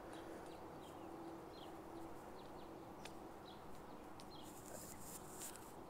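Faint small-bird chirps, short high calls repeating every half second or so, over quiet outdoor background noise with a faint steady low hum in the first couple of seconds.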